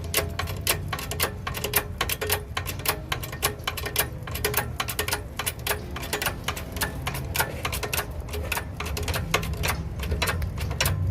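Irregular sharp clicks and taps, several a second, of hand tools working on a motorcycle, over a steady low hum.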